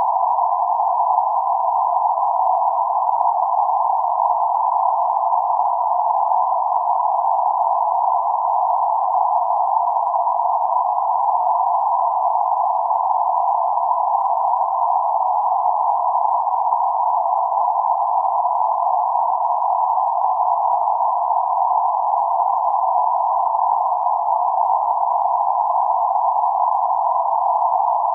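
Band-limited noise centred around 848 Hz, a steady hiss confined to a narrow band of middle pitches with nothing low or high, unchanging throughout.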